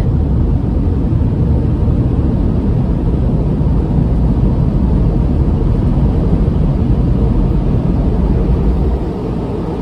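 Automatic car wash air-dryer blowers running, a loud steady rush of air heard from inside the car, easing off slightly near the end.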